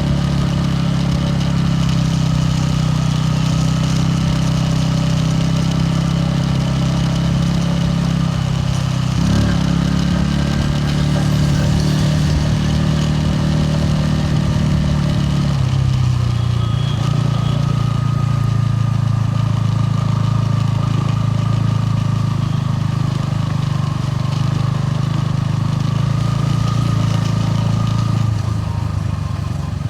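Bajaj Pulsar N160's single-cylinder engine and exhaust running steadily under way. About halfway through, the engine note drops to a lower steady pitch.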